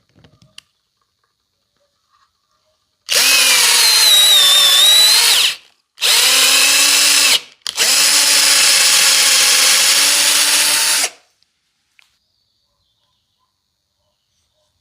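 Small electric power tool run in three bursts, the first two to three seconds long and the last about three and a half seconds. Its motor pitch sags and recovers in the first burst, as it does under load.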